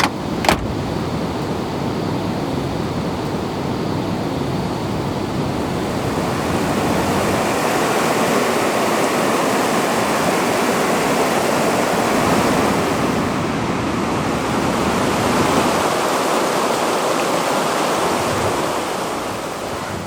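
Steady rushing of a mountain river's water, growing a little louder about a third of the way in and falling away at the very end.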